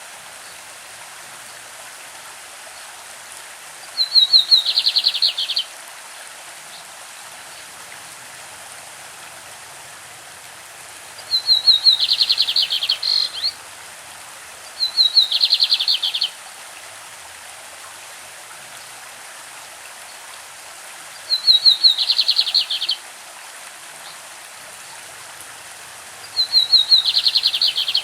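Male lined seedeater (bigodinho) singing its classic song: five phrases a few seconds apart, each about a second and a half, opening with a quick run of short high notes and going into a dense rapid series of notes. A steady rush of running stream water lies underneath.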